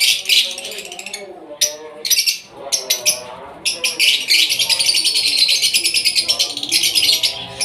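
Many small birds chirping and chattering rapidly and continuously, with a brief lull about a second and a half in, over background music.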